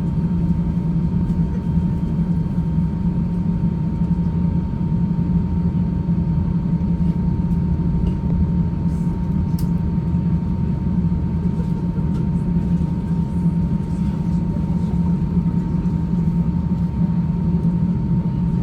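Steady engine and cabin noise inside an Airbus A350-900 with Rolls-Royce Trent XWB engines: a constant low rumble with a thin steady whine above it, holding level throughout.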